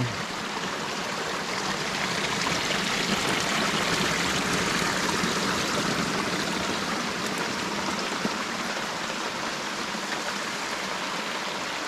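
Steady rush of running water from a small rainforest waterfall stream, swelling a little a few seconds in.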